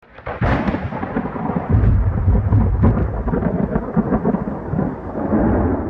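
Loud, continuous rumble of thunder with a crackling texture.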